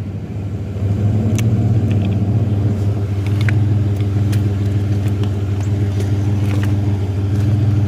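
Truck engine running steadily at an even pitch, with a few scattered light clicks and knocks over it.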